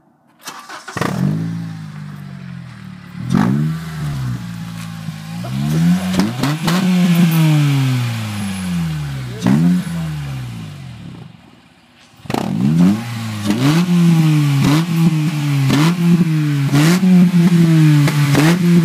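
Acura RSX's K20A3 2.0-litre four-cylinder with the muffler deleted, revving: the sound begins about a second in, and several long revs rise and fall in pitch. After a brief lull about twelve seconds in, a run of short throttle blips follows, more than one a second.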